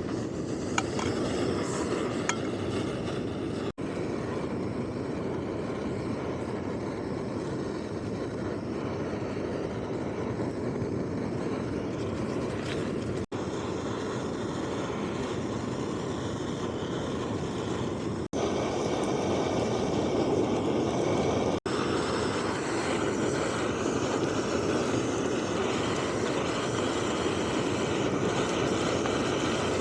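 Steady rushing of strong wind and breaking surf on an open beach, with a few small clicks in the first couple of seconds. The sound drops out for an instant four times and gets a little louder about two-thirds of the way through.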